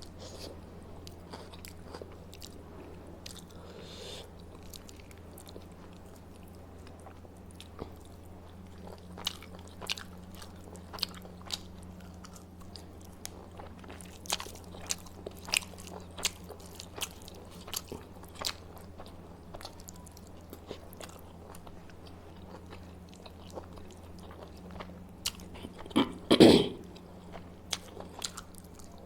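Close-up chewing and biting of food, with scattered short wet clicks of the mouth, over a steady low hum. A louder burst of sounds comes near the end.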